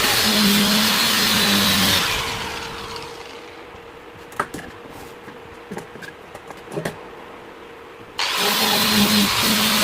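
An electric power tool's motor running, switched off about two seconds in and spinning down, then a few light clicks of handling, then switched back on abruptly near the end and running again.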